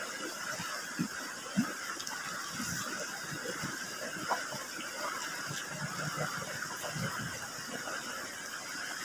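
Close-up mouth sounds of a person eating chicken feet and rice by hand: soft, irregular chewing smacks. Under them, a steady rush of river water.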